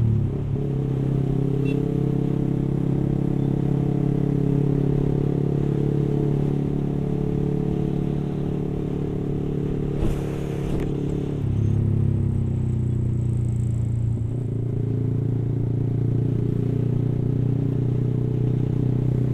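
Yamaha R15's single-cylinder engine running through an aftermarket exhaust while the motorcycle cruises at town speed, heard from the rider's seat. The engine note shifts about eleven seconds in, with a brief hiss just before it.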